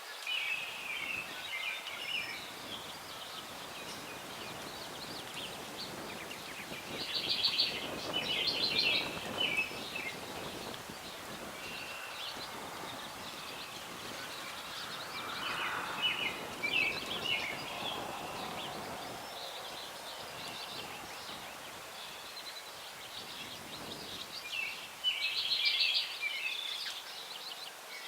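Songbirds singing in short chattering phrases, four times, over the steady hiss of a breeze blowing through the branches of an old tree grove.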